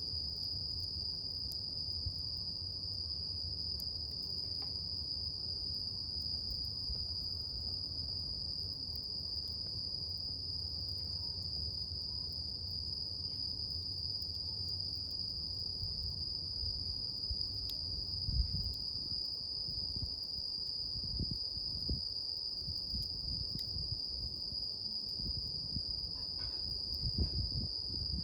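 Insects chirring in one steady, unbroken high-pitched drone. Beneath it runs the low rumble of a campfire, with a few faint crackles and several soft low thumps in the second half.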